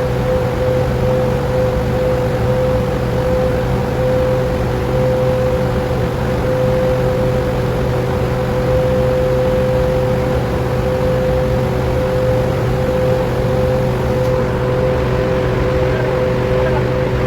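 A 100 HP industrial electric motor driving a grinder machine, running with a loud, steady hum that holds one pitch throughout.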